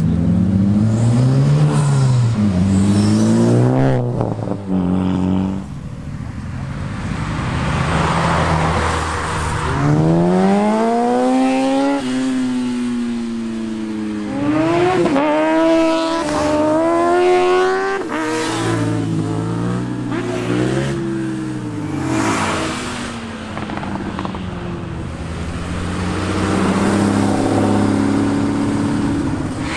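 Sports car engines revving and accelerating hard past, one after another. Each engine's pitch climbs steeply and drops back several times, the way it does at full throttle and on upshifts.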